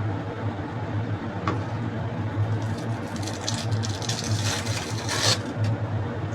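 A steady low mechanical hum, with a stretch of crackly rustling from about three to five and a half seconds in.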